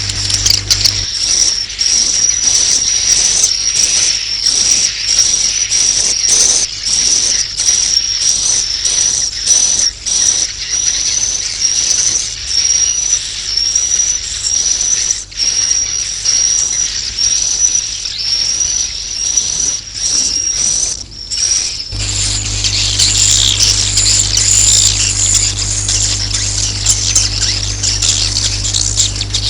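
Swiftlets' roosting twitter ('suara inap'), a recorded lure call of the kind played to draw swiftlets into a nest house: a continuous high, shrill chirping repeated in quick short phrases. About three quarters of the way through it turns into denser, more scattered twittering with a low hum underneath.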